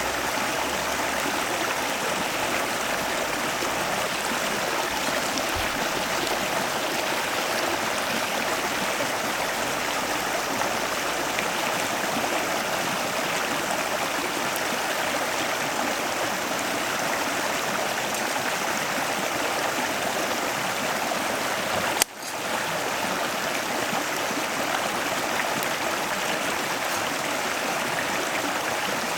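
Stream water running steadily with an even rush. About three-quarters of the way through there is one sharp click, and the sound drops away briefly before coming back.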